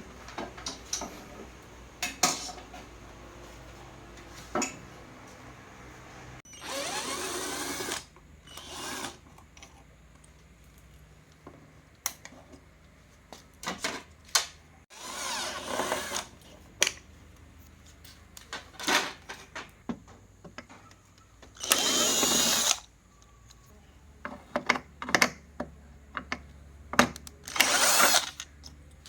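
Cordless drill-driver running in short bursts of about a second, several times, between scattered clicks and knocks.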